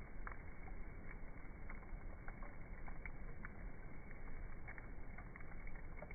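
Wood campfire crackling: irregular small pops and snaps, several a second, over a steady low rush.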